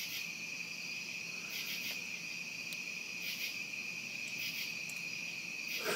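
A night chorus of crickets, with a steady, continuous high-pitched trill and a higher call that repeats about every second and a half.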